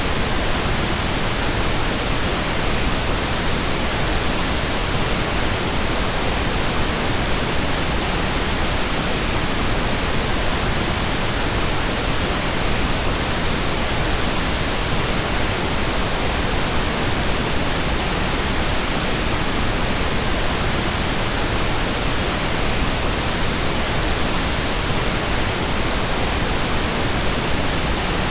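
Steady pink noise: an even, unbroken hiss spread across the whole range of pitch, with no changes.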